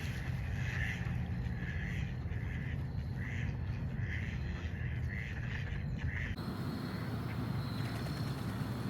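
Ducks quacking repeatedly, one or two short quacks a second, over a steady low rumble; about six seconds in the background changes abruptly and the quacks thin out.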